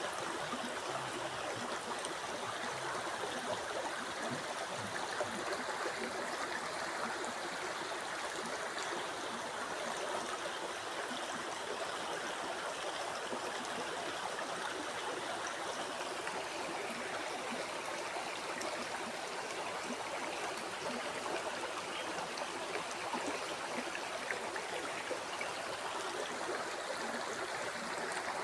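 Flowing river water: a steady, even rush with a little gurgling and trickling.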